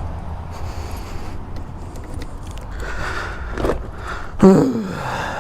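Scraping, rustling and clicking handling noises as a motorcycle seat is unlocked with a key, over a steady low hum. A short, loud sound falling in pitch comes about four and a half seconds in.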